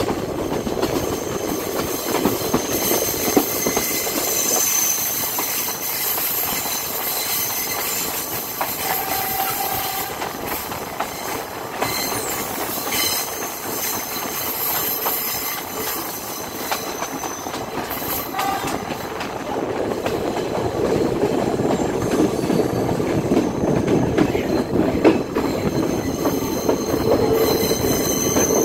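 Passenger train running on rails, heard from an open carriage doorway: a steady rumble of wheels with clicks over the rail joints. High-pitched wheel squeal comes in as the train takes curves, strongest a few seconds in and again near the end.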